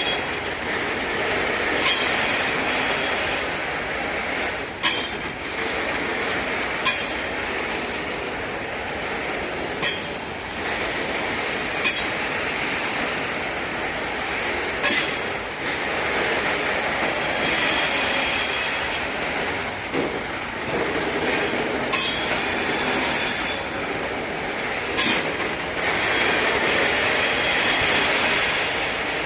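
Freight wagons rolling slowly past, their wheels clacking sharply over rail joints every two to three seconds. Metallic wheel squeal rises now and then.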